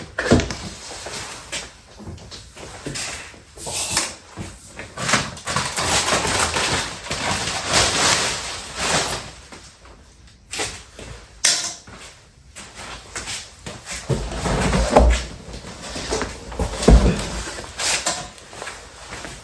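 Cardboard packaging of a large box being handled and pulled open, with irregular scraping, rustling and knocks, then two dull thumps in the second half.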